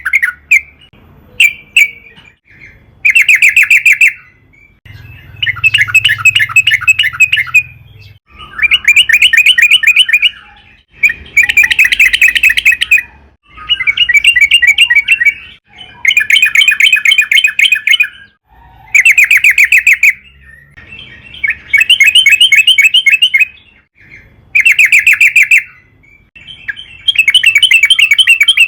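Yellow-vented bulbul (trucukan) singing loudly in repeated phrases of rapid chattering notes, each phrase a second or two long, coming every two to three seconds.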